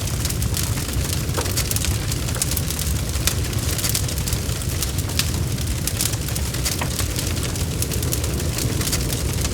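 Wood logs burning in a fireplace: many quick, irregular crackles and pops over a steady low rumble of the fire.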